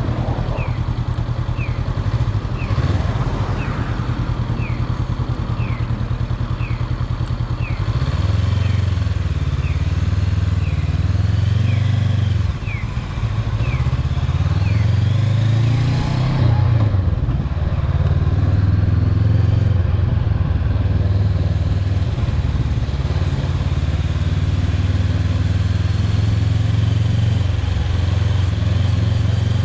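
A motor vehicle's engine running while driving, its low pitch rising and falling as it speeds up and slows down. In the first eight seconds there is also a series of short high chirps, about two a second.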